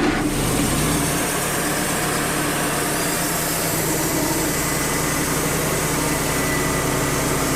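Wood-Mizer LT35 portable sawmill's engine running steadily at a constant pitch.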